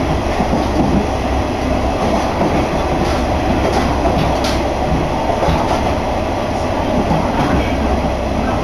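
Running noise of a Kanto Railway Joso Line diesel railcar heard from inside: a steady rumble of the train and its wheels on the rails, with a few faint clicks around the middle.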